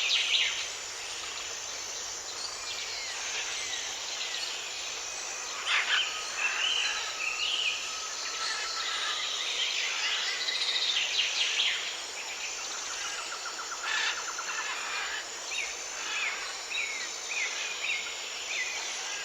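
Several wild songbirds calling and singing with chirps and gliding whistles. Near the end one bird repeats a short down-slurred note about twice a second. Under them runs a high insect note that pulses about once a second.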